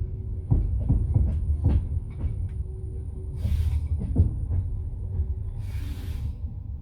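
Passenger railway carriage rumbling along the track, its wheels clacking over rail joints in the first couple of seconds. Two short hisses come about halfway through and near the end.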